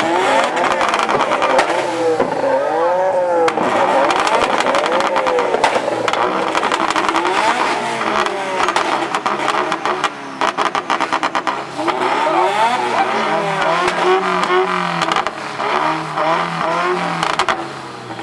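Car engines being revved over and over, pitch rising and falling with each blip, with the exhaust crackling and popping between revs.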